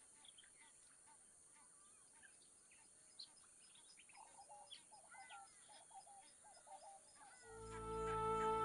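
Faint bird calls and chirps, scattered and brief and busiest about halfway through, over quiet natural background noise. Soft music with sustained notes comes in near the end.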